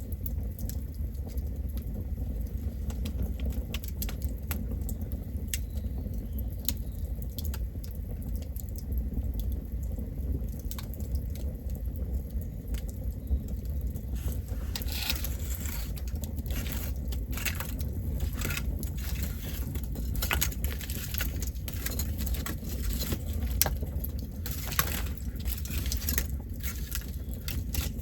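Campfire burning: a steady low rumble under scattered crackles and pops of burning wood, which become busier and louder from about halfway through.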